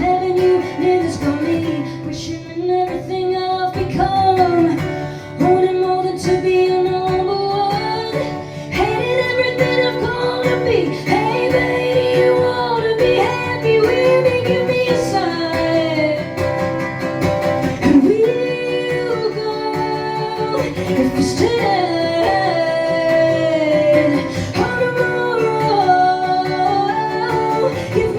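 Live music: a woman singing over guitar accompaniment.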